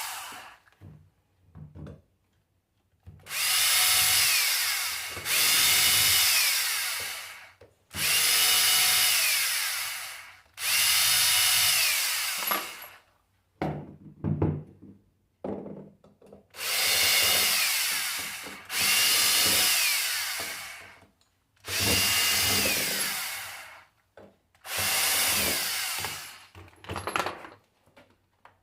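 Power tool run in about eight bursts of roughly two seconds each. Each burst ends with a falling whine as the motor winds down.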